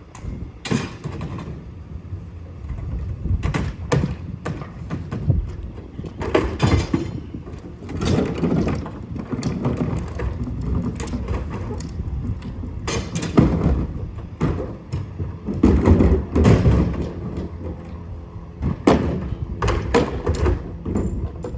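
Irregular clunks and thumps, some sharp and loud, over a low steady rumble.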